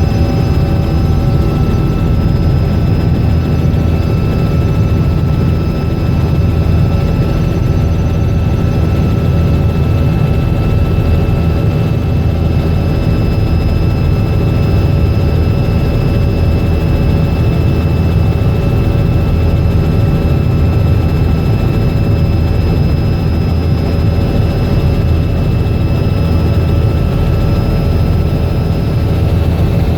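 Robinson R66 helicopter in flight, with its Rolls-Royce RR300 turboshaft and rotor running steadily. A loud low rumble carries several steady whining tones above it.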